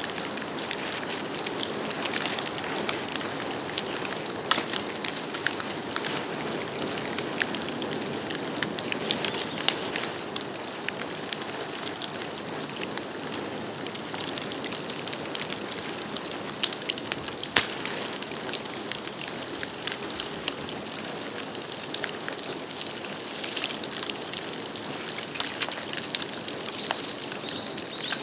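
Bamboo bonfire burning with a steady crackle and hiss and scattered sharp pops, one louder pop a little past the middle. A thin high whistle comes and goes over it.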